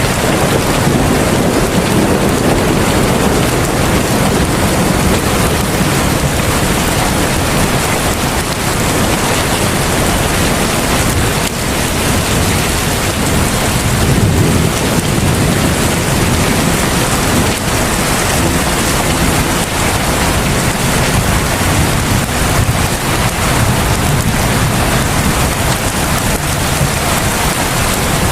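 Heavy rain falling steadily in a dense, even hiss, with a low rumble swelling and fading a few times.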